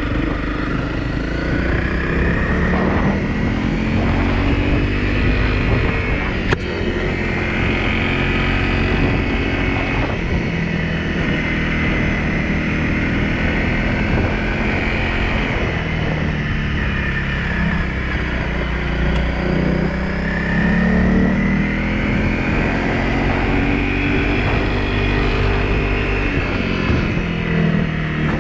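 Honda CRF250L's single-cylinder four-stroke engine running as the bike rides a gravel track, its pitch rising and falling again and again as the throttle opens and closes, over a steady low rumble.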